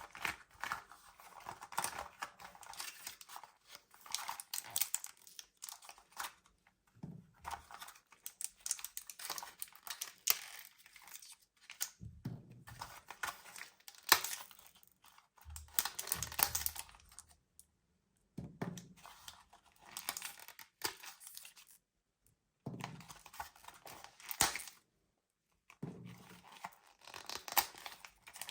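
Close-up crinkling and rapid clicking as small hard bead candies and their plastic packaging are handled. The sound comes in spells of a few seconds with short silent pauses between, a few spells opening with a soft thump.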